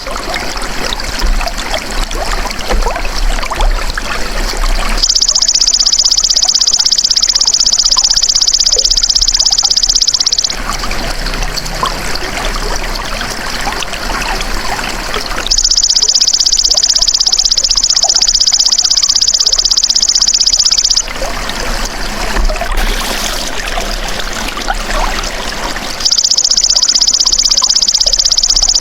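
Belalang emas ('golden grasshopper') insect calling in a steady, high, dense buzz, in three bouts of about five seconds each separated by pauses. Trickling, babbling water fills the pauses between the buzzes.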